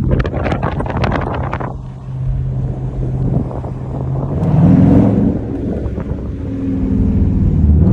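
Car engine running steadily, with a string of sharp clicks in the first two seconds, then the engine revving up about halfway through, its loudest moment.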